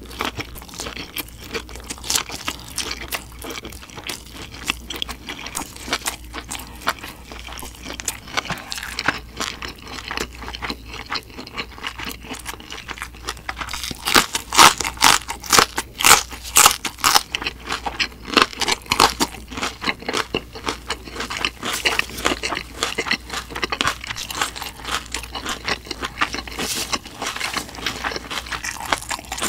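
Close-up eating sounds: chewing a mouthful of food, then, about halfway in, loud crisp crunching as a raw green chili pepper is bitten and chewed.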